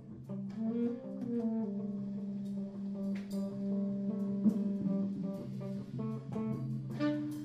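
Guitar playing sustained, overlapping notes in a free jazz improvisation, with a short gliding phrase about a second in and a few scattered percussion hits.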